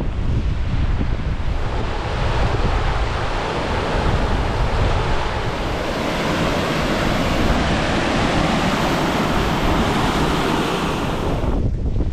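Strong wind buffeting the action-camera microphone with a loud rushing hiss; the hiss drops away shortly before the end while the low buffeting goes on.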